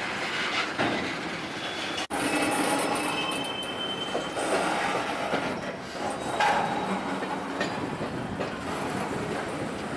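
Railroad cars rolling past, their steel wheels squealing on the rail in thin high tones over a steady rolling noise. The sound drops out for an instant about two seconds in.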